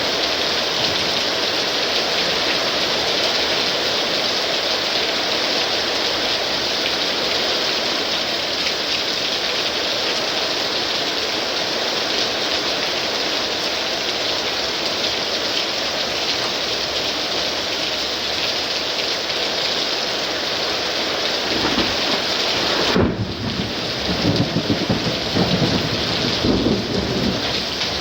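Heavy rain of a thunderstorm downpour hissing steadily. About three-quarters of the way through, thunder starts to rumble, breaks into a sharp clap, and rumbles on unevenly for a few seconds.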